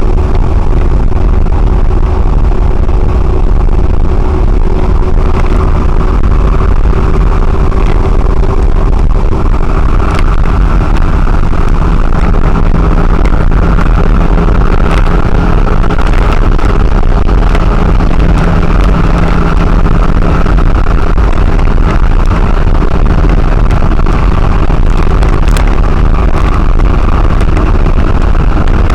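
Lorry driving at steady speed: continuous engine and road noise with a heavy low rumble and a constant drone, without any big change in pace.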